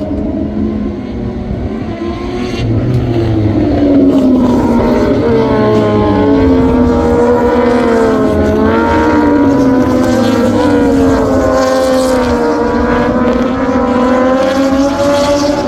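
Engines of several MotoGP racing motorcycles running at high revs, their pitch rising and falling as they accelerate, shift and brake. The sound grows louder about four seconds in.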